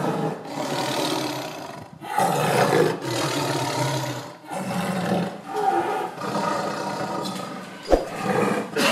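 A tiger roaring and growling in a series of rough calls, each about a second long with short breaks between them. A sharp click comes near the end.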